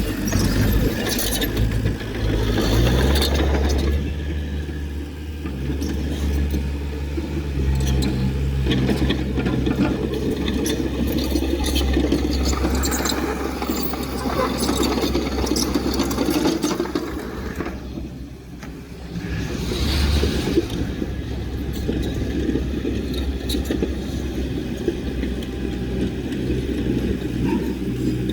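Heavy diesel engine of earthmoving machinery running steadily under load, with a low drone and some scraping noise; the sound dips briefly about two-thirds of the way through, then picks up again.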